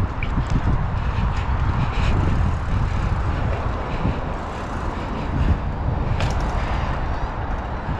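Wind rushing over the microphone while riding, mixed with the rolling rumble of a fat-tyred 29-inch BMX bike on pavement. It is a steady, low-heavy rush with a few faint ticks.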